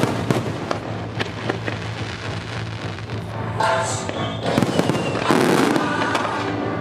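Fireworks display going off: many sharp bangs in quick succession, with crackling from the bursting shells, over music.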